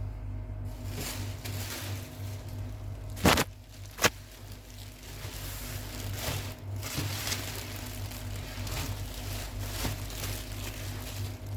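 Soft handling noises over a steady low hum, with two sharp clicks a little over three and four seconds in.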